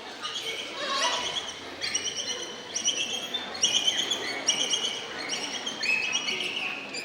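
A person imitating birdsong with the voice: a quick series of high, chirping and whistled notes with falling glides, in short phrases one after another.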